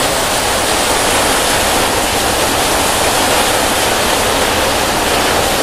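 Heavy rain drumming steadily on a corrugated metal roof, loud enough to drown out speech.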